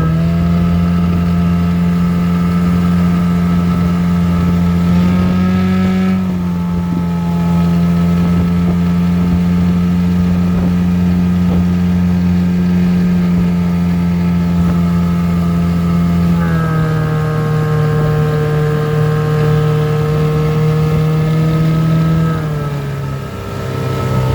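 7.5 hp Mercury outboard motor running under way on a small aluminium boat, with a steady drone. The engine speed changes a few times: a slight rise about five seconds in, a drop about two-thirds of the way through, and a further drop near the end.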